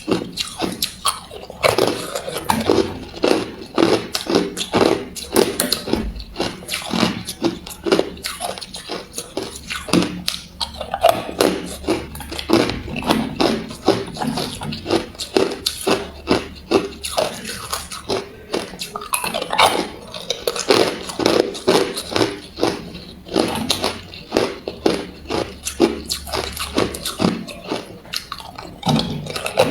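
A person biting and chewing ice close to the microphone: a steady run of loud, sharp crunches, several a second, with short pauses between mouthfuls.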